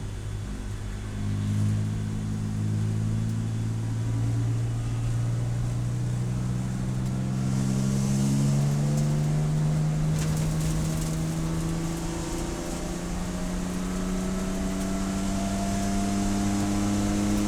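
Race car engine under steady load, its pitch climbing slowly and evenly as the car gathers speed, with a hiss of wind rising from about halfway.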